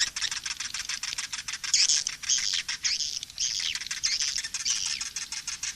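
Swiftlets calling: a chorus of high chirping twitters over a fast, dense train of clicks. This is a mixed swiftlet lure-call recording of the kind played to draw swiftlets into a nesting house.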